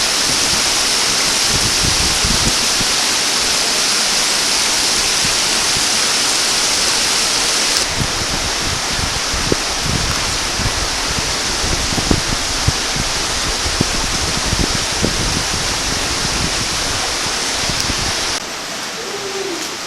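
Rushing, cascading creek water, loud and steady. Scattered low thumps sound through the middle of it, and the level drops a little about eight seconds in and again near the end.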